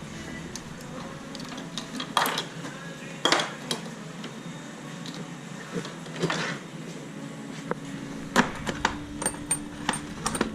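Metal hand tools and parts clinking and knocking irregularly as they are handled, with a few louder clanks and a quicker run of small clinks near the end.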